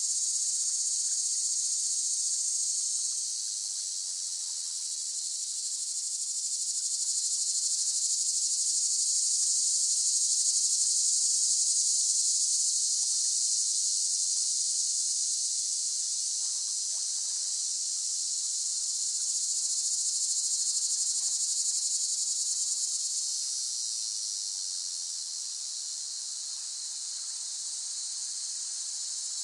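Chorus of cicadas buzzing continuously in a dense, high-pitched shrill, slowly swelling and fading in loudness, with a dip about four seconds in and a quieter stretch near the end.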